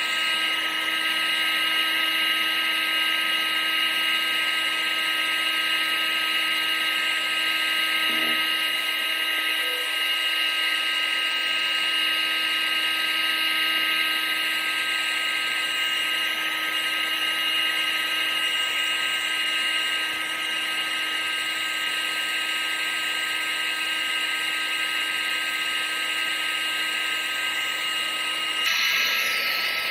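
Electric motor and fan of a household appliance running steadily: a high whine over rushing air. Its tone changes abruptly just before the end.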